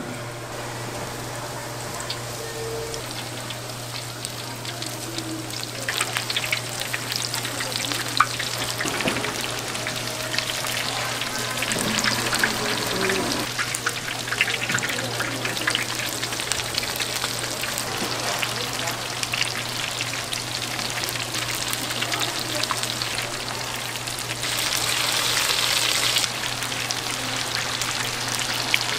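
Food frying in hot oil: a dense, steady sizzle full of small crackles and pops, growing louder about six seconds in, with a louder hiss for a couple of seconds near the end.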